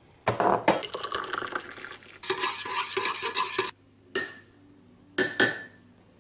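Clinking and scraping of crockery and cutlery, with a busy run of clinks in the first couple of seconds and a few separate clinks near the end.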